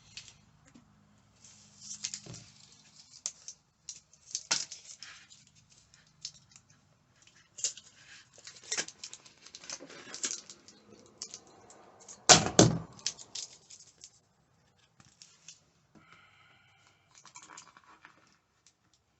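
Hand work with sound deadening material: irregular tearing, scraping and clicking, with one loud knock about two-thirds of the way through.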